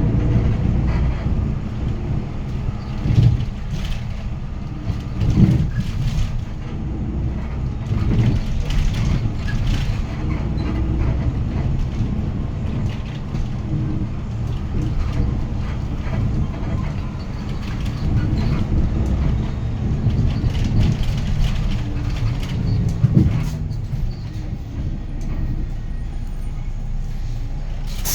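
Cabin sound of a Hyundai Green City city bus under way: its D6GB diesel engine running with steady road and drivetrain noise, and a few sharp knocks and rattles from the body, the loudest about 3, 5 and 23 seconds in.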